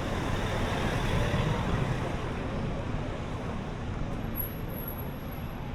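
Steady road traffic noise heard from a bicycle on the road. A thin high whine comes in about four seconds in.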